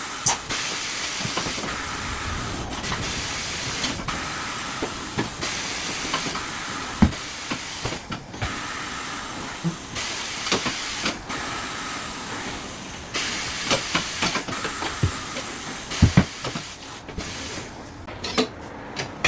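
Compressed air hissing in long stretches with brief breaks, with scattered sharp knocks and clicks of tyre-fitting work on a wheel.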